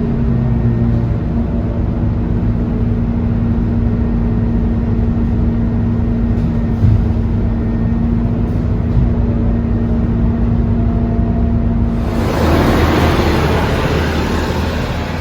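Scania K230UB city bus running, heard on board, with a steady hum over low engine rumble. About twelve seconds in, the hum stops and a loud rush of hissing air sets in.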